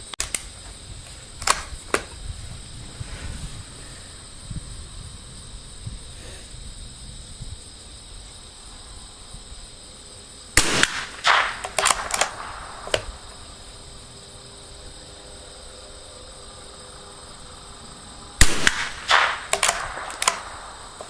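.22 long rifle target rifle firing: a few sharp cracks near the start, then two quick strings of several shots, about ten and eighteen seconds in.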